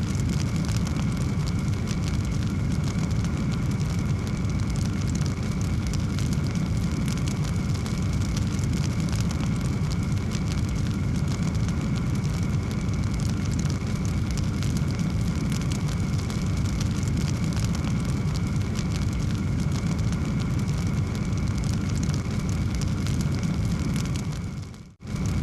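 Wood fire crackling in a fireplace: a steady low rumble of flames with dense small crackles. The sound drops out briefly near the end and then returns.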